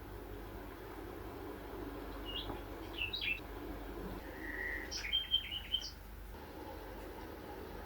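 Small birds chirping: scattered short, high chirps and a brief trill between about two and six seconds in, over a steady low hum.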